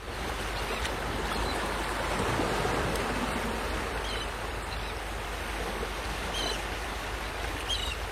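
Small waves washing on the Baltic Sea shore, a steady rushing of water, with a few faint high chirps over it.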